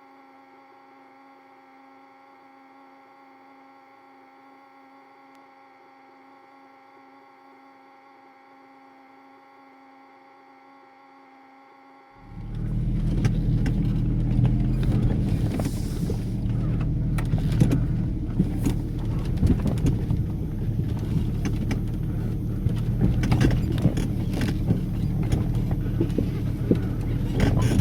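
A faint steady hum of several held tones, then, about twelve seconds in, an off-road vehicle's engine suddenly starts up loud and runs on with a low rumble. Frequent knocks and rattles sound over it as the vehicle works through deep muddy ruts.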